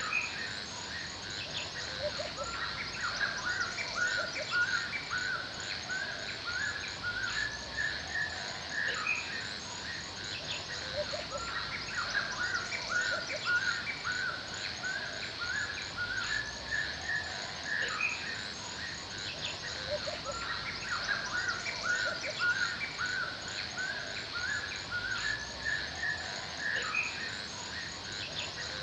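Forest ambience: many small birds chirping continuously in short repeated calls, over a steady high hiss and a fast, even high ticking like insects.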